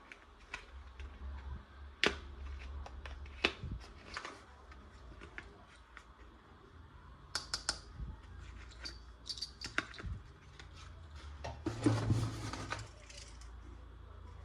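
Small plastic toy parts being handled: scattered light clicks and taps, with a denser rattling cluster near the end.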